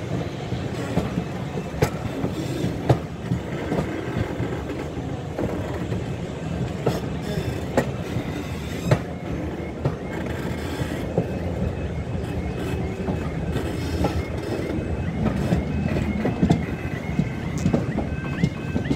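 Heritage railway passenger train running along the line, heard from an open carriage window: a steady rumble with the wheels clicking over rail joints every second or so. In the last few seconds a repeating rising tone comes in, about two a second.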